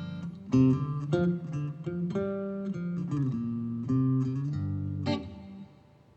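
Guitar and bass guitar playing a short blues phrase of plucked notes and chords, stopping sharply near the end.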